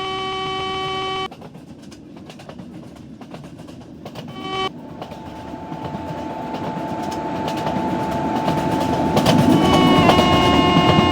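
Locomotive horn of a high-speed train: a blast that stops about a second in, a short toot a few seconds later, then a long held horn as the train approaches. The rumble of the train grows steadily louder, and wheel clatter on the rails joins near the end as it rushes past at speed.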